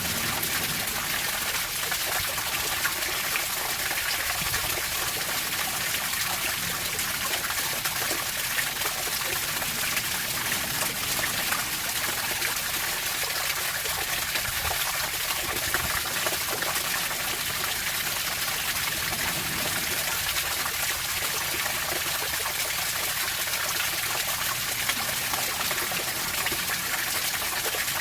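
Water flowing steadily, an even splashing rush with no rise and fall.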